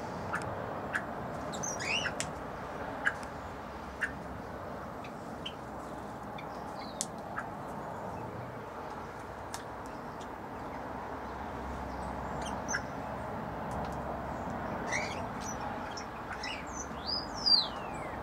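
Aviary birds giving scattered short chirps and calls over a steady background noise, with a louder falling call near the end.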